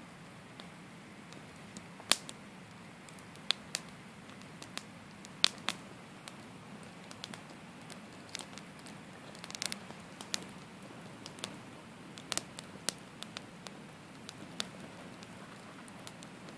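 Wood campfire crackling: irregular sharp pops over a low steady hiss, with a quick run of crackles near the middle.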